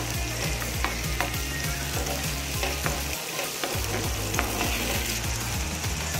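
Onions and split moong dal sizzling in hot oil in a pan while a steel spoon stirs them, with several short clicks and scrapes of the spoon against the pan.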